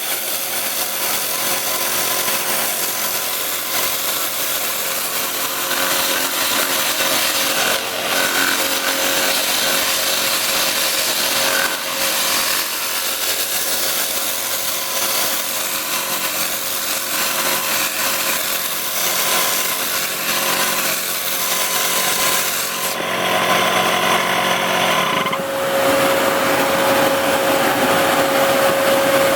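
Lathe running with a steady hum while a tool scrapes and shapes the spinning wooden body of a pencil popper lure, giving a continuous rough hiss. The texture of the cutting changes briefly about 23 seconds in, and the hum grows stronger after that.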